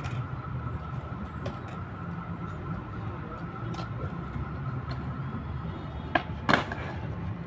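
City street ambience: a steady low traffic rumble with a thin steady hum above it, and a few sharp clicks or knocks about six seconds in, the second of them the loudest.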